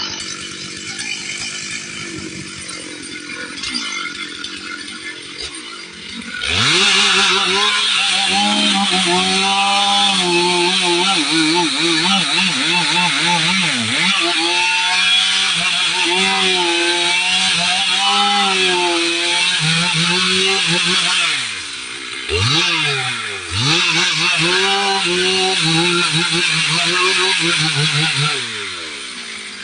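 Chainsaw running at low revs, then revved up about six seconds in and cutting into wood, its pitch sagging and recovering as the chain bites. It eases off briefly twice and drops back near the end.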